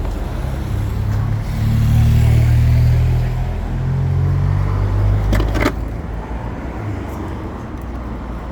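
A car engine running with a low hum. It swells louder for a second or two about two seconds in, then settles back. A couple of sharp knocks come about five and a half seconds in.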